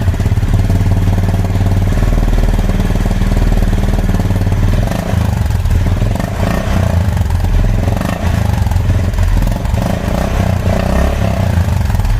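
Honda CB350 RS's 350 cc single-cylinder engine running, heard through its exhaust with a deep, bassy note, with a few short swells in the second half.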